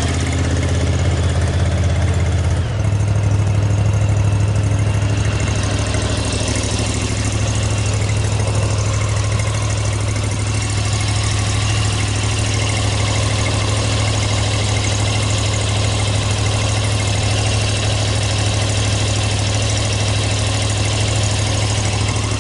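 Zero-turn riding mower's engine running at idle, stepping up to a slightly higher speed about two and a half seconds in and then holding steady.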